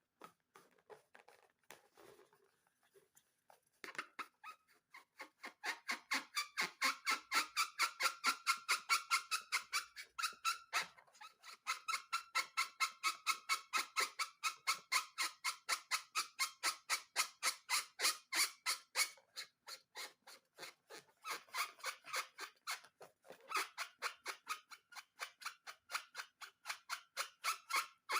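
Rubber balloon squeaking in a fast, even rhythm of about four to five squeaks a second as it is rubbed and squeezed. The squeaks begin a few seconds in and briefly thin out twice.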